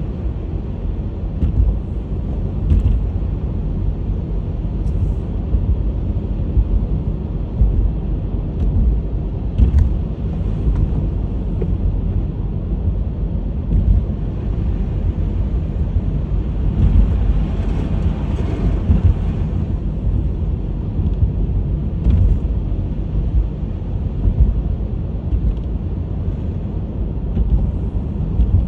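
Honda HR-V driving on a snowy road: a steady low rumble of tyres and engine, with a louder hiss swelling for a few seconds past the middle.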